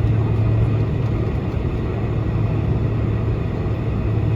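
Steady cabin drone inside a Boeing 747-400 while it taxis: the engines at idle thrust and the cabin air conditioning, with a strong constant low hum under an even rushing noise.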